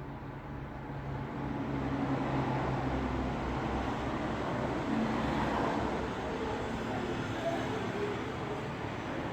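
Road traffic ambience: a steady wash of tyre and engine noise from passing vehicles, with one engine's hum swelling about a second in.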